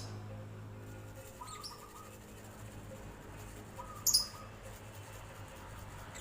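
Lovebird chirping: a faint short high chirp, then a louder sharp one about four seconds in.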